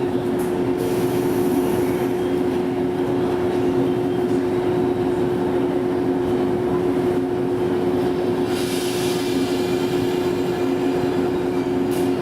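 Electric train running, heard from inside a car: a steady hum over continuous rumble. A short hiss comes about eight and a half seconds in.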